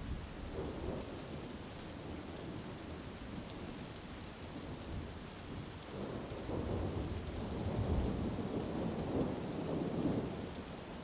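Heavy rain falling steadily, with a long rolling rumble of thunder that swells about halfway through and dies down near the end.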